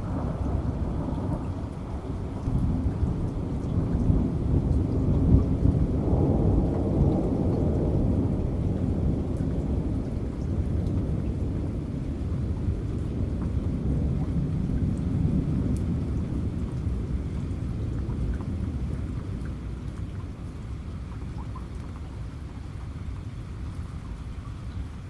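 Heavy rain with a long, low roll of thunder that builds over the first few seconds and slowly fades toward the end.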